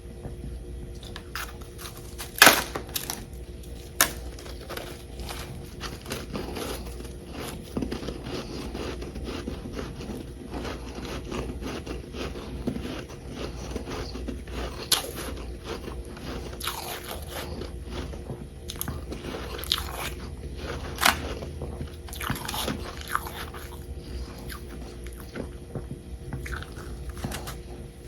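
Close-miked biting and chewing of chunks of humidifier frost: a run of crisp crunches and crackles, with a few much louder sharp cracks standing out, the loudest about two and a half seconds in.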